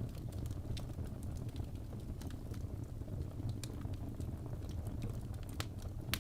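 Wood fire burning in a fireplace: a steady low rumble of the flames with scattered sharp crackles and pops from the burning logs, the loudest pop just before the end.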